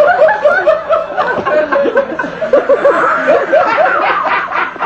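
People laughing: a dense run of chuckles and snickers.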